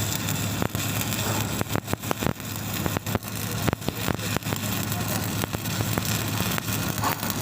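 Stick (shielded metal arc) welding arc crackling steadily with many irregular sharp pops, over a steady low hum.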